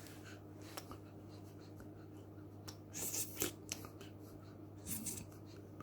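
Faint rustling and scratchy clicks, a cluster about three seconds in and another near five seconds, over a low steady hum.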